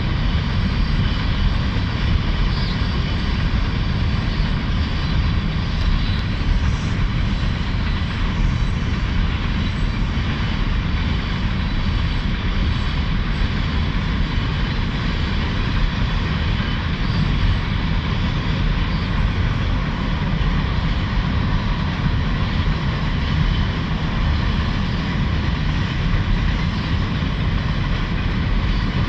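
CN manifest freight train rolling across a bridge: a steady, loud rumble of steel wheels on rail, with faint steady high tones above it.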